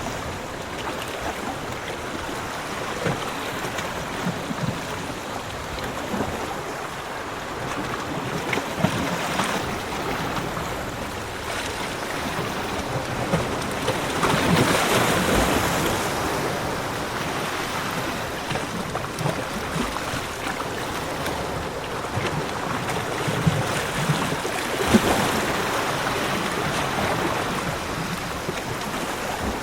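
Ocean waves breaking and washing on a beach, a steady surf that swells loudest about halfway through and again near the end.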